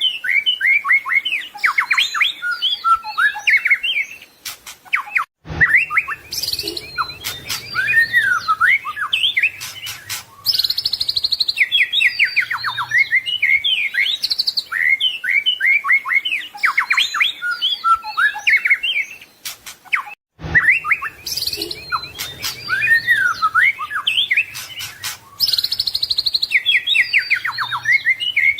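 White-rumped shama singing a fast, varied song of whistles, trills and sliding notes packed with mimicked phrases. The song stops briefly twice, and the same stretch of song starts over after each break.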